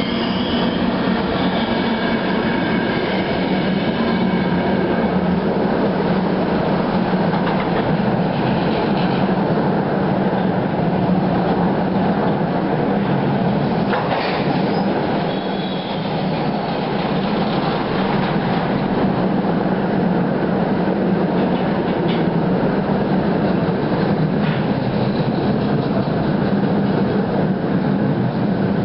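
Rolling-highway freight train of low-floor wagons carrying lorries running past close by, a steady heavy rumble with wheel clatter. A high wheel squeal fades out in the first couple of seconds, and a few sharp clicks come later.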